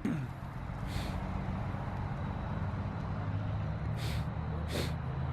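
A car engine running: its note falls right at the start, then it runs steadily, with three short hissing bursts about one second and four to five seconds in.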